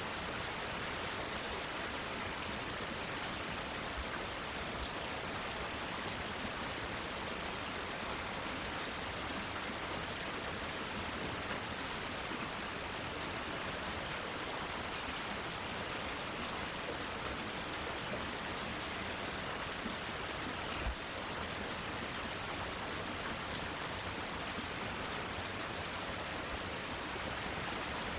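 Steady rainfall on plants, an even hiss of many drops. A single faint low thump about 21 seconds in.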